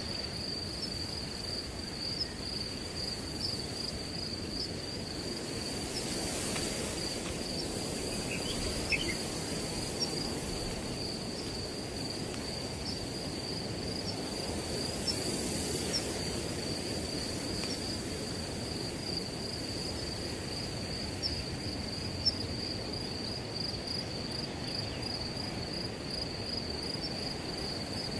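A steady chorus of crickets trilling continuously at one high pitch, over wind blowing through grass with a rustling hiss that swells in two gusts.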